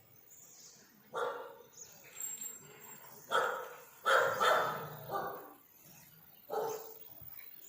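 A dog barking: about half a dozen separate barks at irregular intervals.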